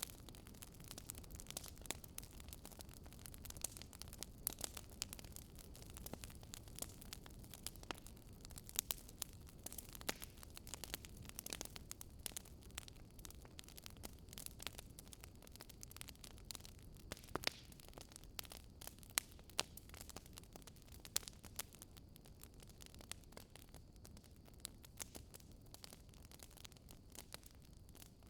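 Wood fire crackling, with frequent irregular sharp pops and snaps over a faint steady hiss.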